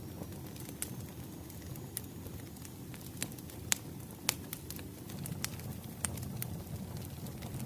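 Wood fire crackling: irregular sharp pops and snaps over a low steady rumble of burning firewood, with two louder pops near the middle.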